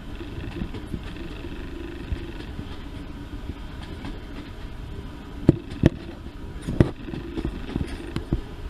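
A train running with a steady low engine rumble, with a few sharp knocks partway through.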